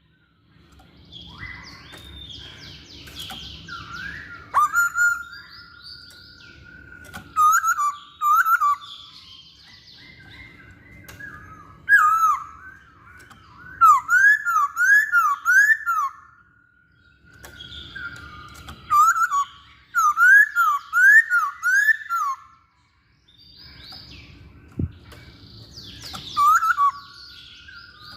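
Masked laughingthrush (poksay Hongkong) singing: bursts of loud, quick whistled phrases of rising and falling notes, repeated several times with short pauses between them.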